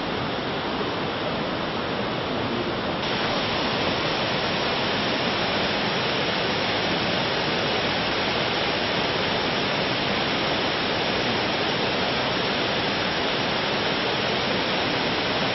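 Waterfall: water falling steadily in a dense, even rush, which gets louder about three seconds in.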